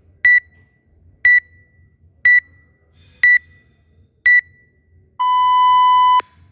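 Workout interval timer counting down: five short high beeps one second apart, then one long lower-pitched beep lasting about a second, the signal to start the workout.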